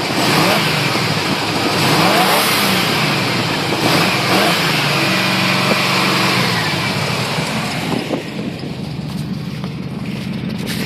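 1987 Chevrolet Silverado's 350 (5.7 L) V8 with true dual Flowmaster exhaust, revved up and down several times, then settling to a steady idle that is quieter over the last few seconds. The engine is running cold after a cold start, and smoothly.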